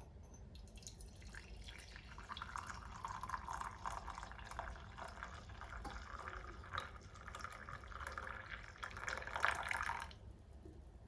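Water running from a tap, starting shortly after the start and shut off abruptly near the end.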